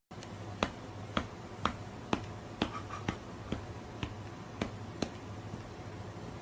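Sharp clicks at an even beat, about two a second, over a low steady hum.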